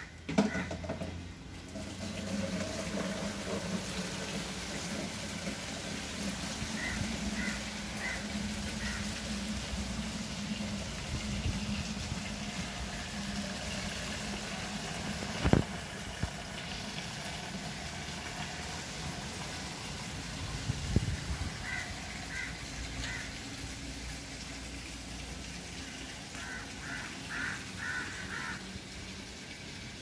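Steady outdoor background noise with a bird calling several times in short runs of four or five quick, high notes. There is a single sharp knock about halfway through.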